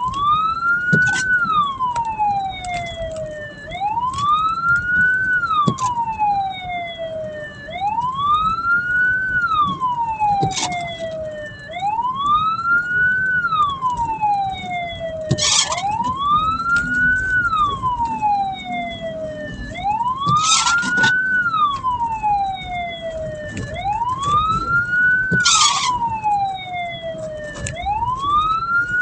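Hearse's siren wailing in a slow repeating cycle, its pitch rising for about a second and falling away for about three, again and again. In the second half a short rasping noise comes in about every five seconds.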